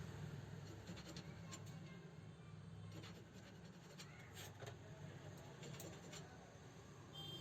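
Faint scattered light clicks and scratches over a low steady hum, close to room tone.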